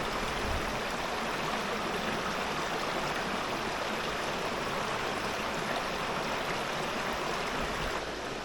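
River water rushing steadily, a constant even wash of flowing current.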